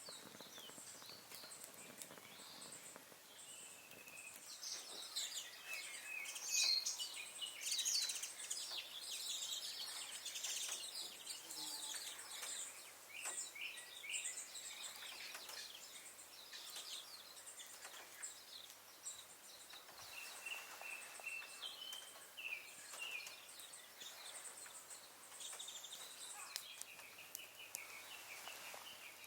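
Wild birds chirping and calling, many short repeated notes, loudest from about five seconds in through the middle, over a faint steady high-pitched hiss.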